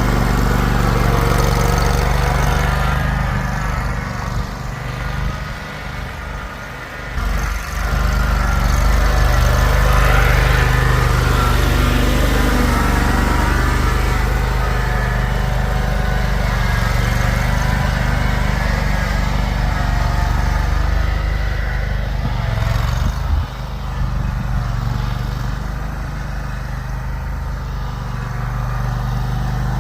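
Engine running steadily under snow-clearing work, its level dipping briefly a few seconds in.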